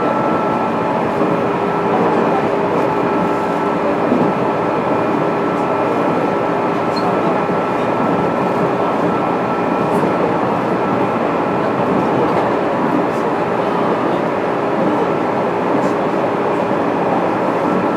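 Running noise inside the motor car of a JR East 205 series electric train, travelling at a steady speed. A dense rumble of wheels on rail runs under a few steady whining tones that hold their pitch, with an occasional faint click.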